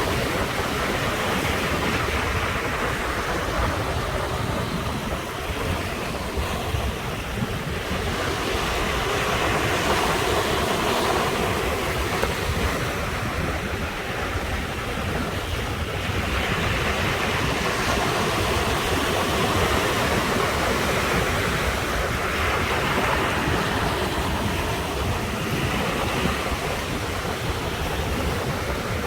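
Ocean surf breaking continuously on the shore, swelling and easing every several seconds, with a low wind rumble on the microphone.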